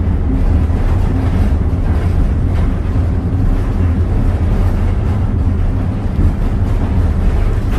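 Steady low rumble and noise of a train ride, heard aboard a passenger coach pulled by steam locomotive No. 2023.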